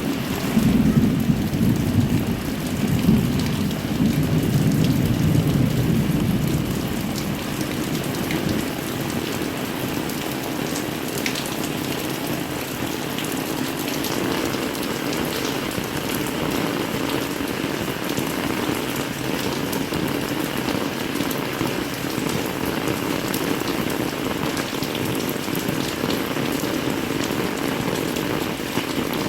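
Heavy rain falling steadily, with a low rumble of thunder dying away over the first several seconds.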